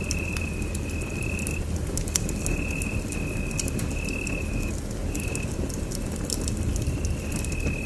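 Wood fire burning in a fireplace: a low rumble with frequent sharp crackles and pops. A thin high whistling tone comes and goes in short stretches throughout.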